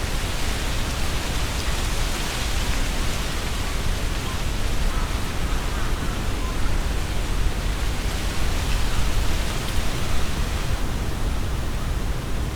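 Strong wind gusting through trees, the leaves rustling in a dense hiss that swells with each gust, over a low rumble of wind on the microphone.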